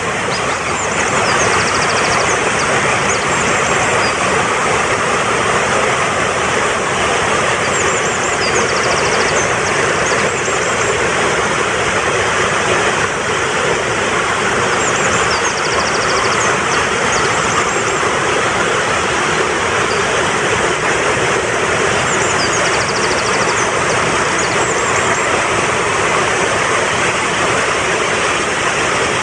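Mountain stream rushing steadily. A short, high phrase of bird chirps and a trill rides over it, repeating about every seven seconds.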